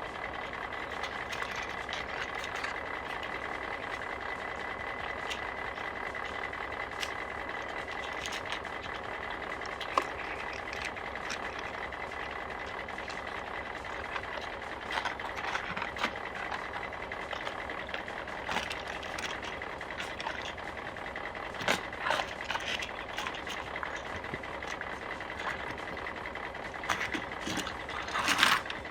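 Steady construction-machinery engine sound, most likely a sound effect laid over the toy play, with many small sharp clicks and knocks throughout and a few louder knocks near the end.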